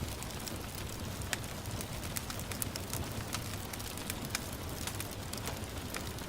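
Wood fire crackling, with sharp irregular pops and snaps, over a steady hiss of gentle rain.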